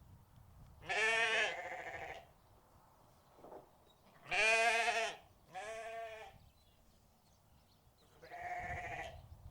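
Livestock bleating: about five separate wavering calls, each half a second to a second long, with pauses between them.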